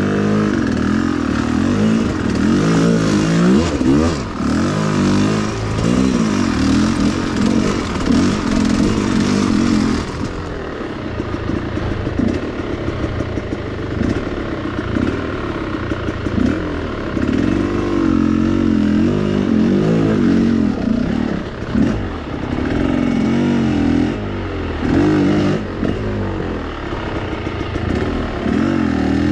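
Enduro motorcycle engine revving up and down over and over as the throttle is worked.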